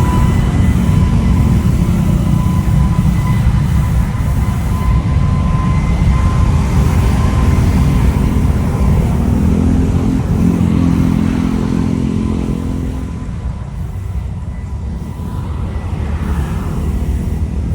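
Jet airliner's engines passing: a loud low rumble with a steady high whine on top. The whine fades out about twelve seconds in and the rumble dies away as the aircraft moves off.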